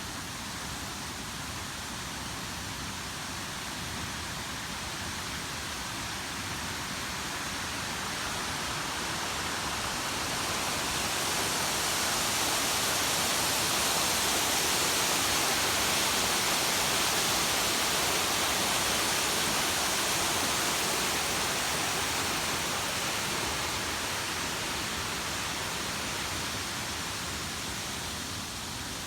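Waterfall: a steady rush of falling water, swelling louder in the middle and easing off again toward the end.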